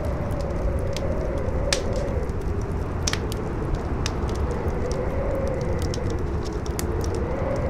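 Campfire crackling with scattered sharp pops, over a strong howling wind: a low rumble with a wavering whistle that rises and falls slowly.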